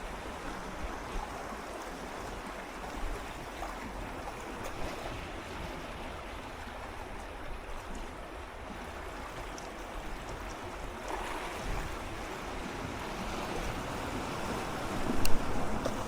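Small sea waves swirling and lapping against shoreline rocks in a steady wash. A wave surges in more strongly about two-thirds of the way through, and a sharper, louder splash comes near the end.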